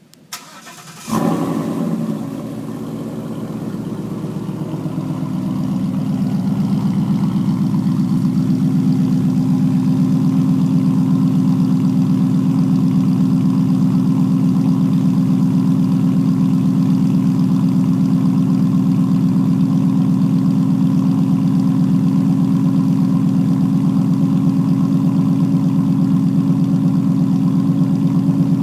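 A 2015 Mustang GT's 5.0-litre V8 cold-starting through a Ford Racing Sport cat-back exhaust with an X-pipe. It catches about a second in with a loud flare, eases back, then settles into a steady, loud cold idle that swells slightly over the next few seconds.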